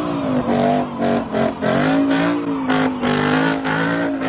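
Car engine being revved in quick blips, its pitch rising and falling again and again.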